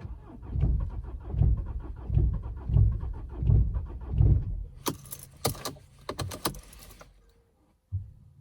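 Mercedes-Benz C220 CDI diesel being cranked on its starter in a −15 °C cold start, turning in slow heavy pulses for about four seconds without catching. This is the long cold crank the owner wants diagnosed. Then come a couple of seconds of sharp metallic clicking and jangling.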